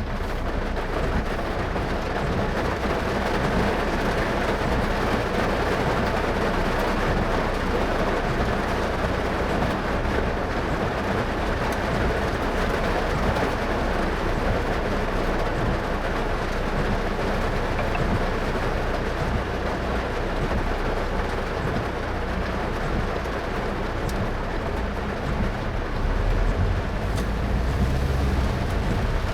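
Car driving on a rain-soaked road in heavy rain: a steady hiss of tyres and rain, with a deeper rumble that grows louder near the end.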